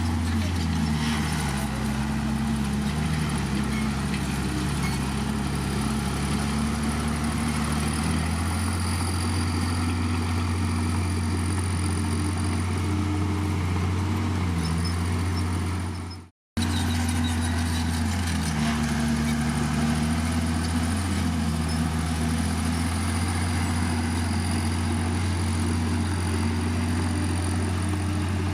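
Komatsu D51PX bulldozer's diesel engine running steadily, its pitch rising and falling as the load changes while it works. The sound breaks off briefly about sixteen seconds in and resumes.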